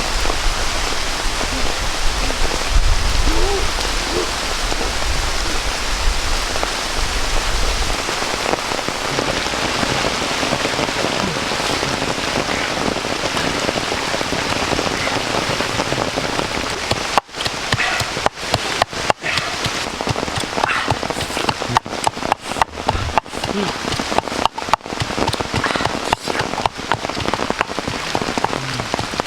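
Steady rain falling, a constant hiss, with a low rumble in the first several seconds; from a little past halfway the sound drops out briefly again and again.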